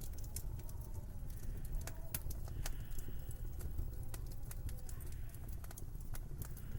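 Wood fire crackling in a fireplace: many sharp, irregular pops and snaps over a steady low rumble, with a faint wind whistling.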